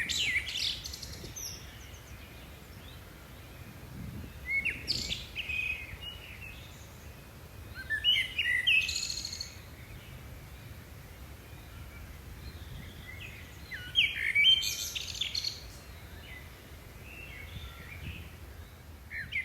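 Songbirds singing outdoors in short bursts of quick chirps and trills, a phrase every four or five seconds, over a steady low background rumble.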